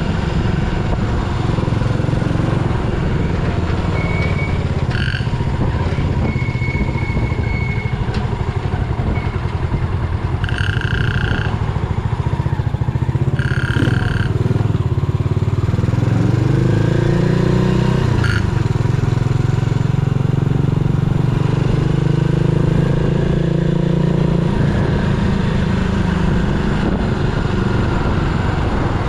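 Yamaha SR400's air-cooled single-cylinder engine running on the road, the revs climbing and easing off about halfway through. A few short high chirps sound over it.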